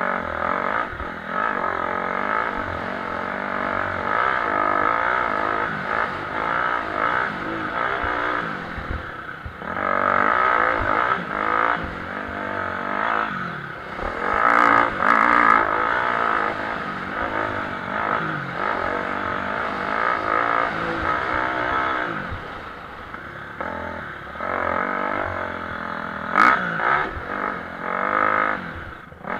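Motocross motorcycles racing on a dirt track, their engines revving up and down through the gears as they accelerate and back off, with overlapping engine notes and a few sharp clacks.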